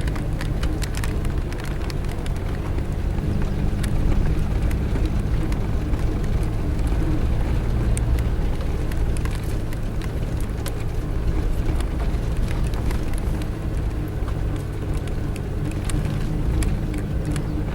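Suzuki Jimny 4x4 driving along a dirt road: a steady engine drone with frequent short knocks and rattles from the rough ground.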